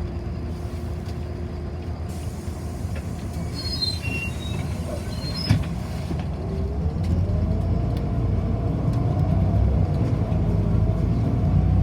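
Inside a city bus: a low running rumble, then a whine that rises in pitch while the sound grows louder, as the bus pulls away and accelerates. A single sharp click about halfway through.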